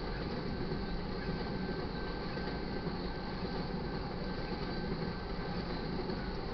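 Tank cars of a crude oil freight train rolling past: a steady rumble of steel wheels on the rails with no let-up.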